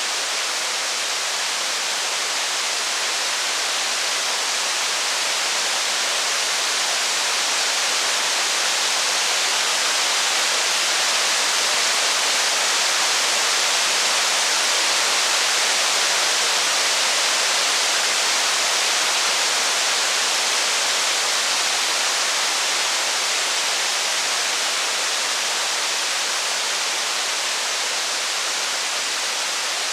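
Steady heavy rain falling in an even hiss, swelling slightly toward the middle and easing off again.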